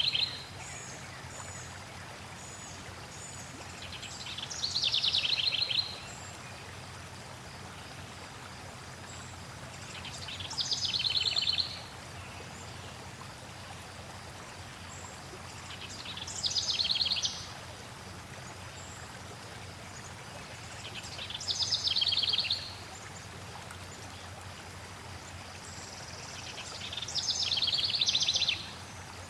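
A songbird repeating the same rapid trilled phrase five times, about every six seconds, each one swelling in loudness over a second or two and then stopping short. Under it runs a steady wash of flowing water.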